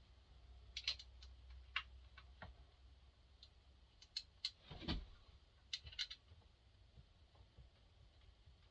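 Light, scattered clicks and small knocks of parts being handled and fitted, with one duller knock about five seconds in: the full wrap handle being offered up and mounted on a Husqvarna 350 chainsaw.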